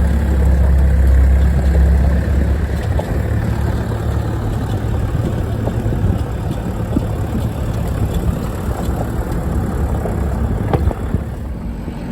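A 4x4's engine running at low revs as it crawls over a rough stony off-road track, with the tyres crunching and small stones ticking beneath. The engine's low hum is strongest for the first three seconds or so, then eases.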